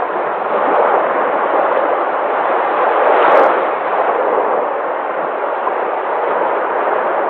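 Sea waves breaking and washing ashore: a steady rushing surf that swells and eases, loudest about three seconds in.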